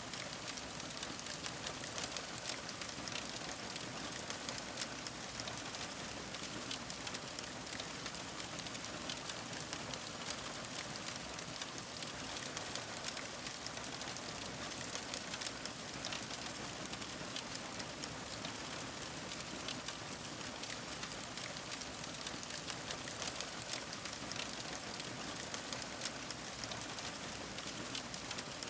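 Wood fire crackling steadily: an even hiss with many small, quick pops and snaps throughout.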